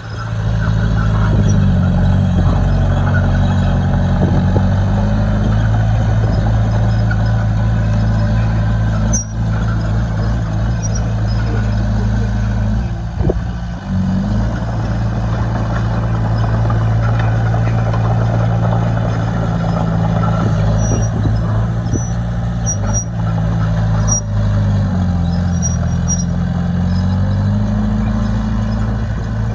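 Heavy construction machine's diesel engine running under load, its pitch rising and falling a few times as it revs up and settles.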